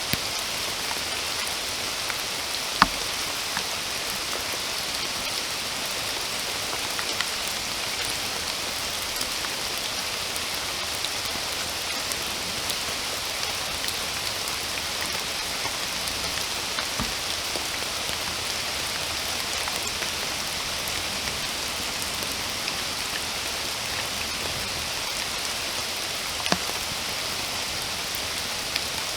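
Steady rain falling: an even, dense patter of drops, with a couple of louder single drips, one about three seconds in and one near the end.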